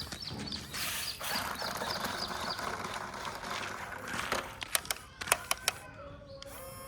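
Toy RC dump truck handled and driven: a few seconds of scraping, rattling noise, then a run of sharp plastic clicks, then its small electric motor starting a steady whine near the end.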